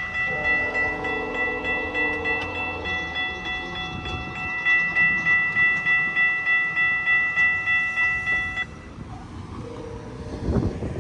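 Railway level-crossing bell ringing steadily in quick, even strikes, cutting off about eight and a half seconds in, over the sound of a passing GO Transit commuter train.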